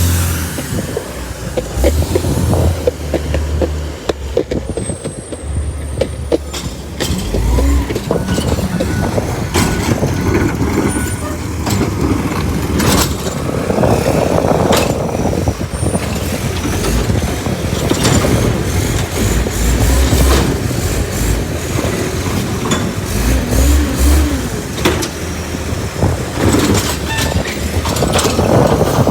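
Bridgeport Ranger side-loader garbage truck on a recycling pickup: the engine runs throughout, with many sharp knocks and clatter, and a couple of loud hissing bursts about halfway and near the end.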